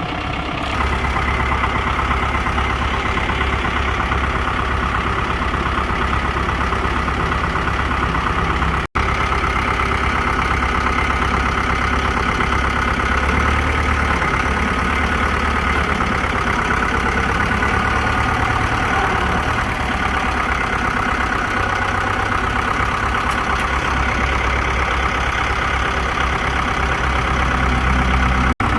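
Kubota M6040SU tractor's diesel engine running steadily. It steps up in loudness about a second in, and the sound breaks off for an instant twice.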